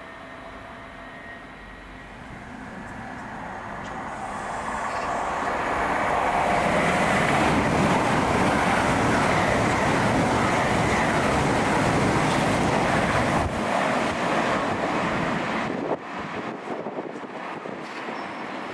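A train passing through at speed: a broad rush of noise that builds over a few seconds, stays loud for about seven seconds, then falls away, with a sudden drop near the end.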